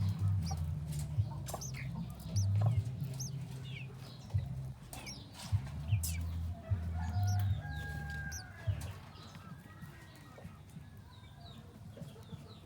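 Small birds chirping in many short, high, quick calls, typical of nestlings begging at the nest. Under them is a loud, low, stepped bass drone that stops about nine seconds in.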